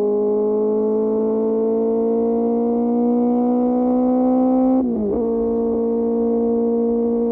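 QJ Motor SRK600's inline-four engine through an SC-Project exhaust, pulling under steady throttle with its note rising slowly. About five seconds in there is a quick upshift: the pitch breaks and drops, then the engine holds a steady drone.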